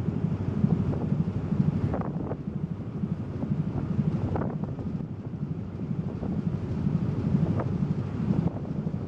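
Wind buffeting the microphone aboard a car ferry under way, over the ferry's low, steady rumble.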